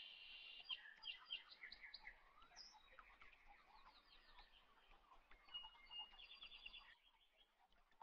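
Faint chirping of small birds, a string of short calls and quick trills that dies away near the end.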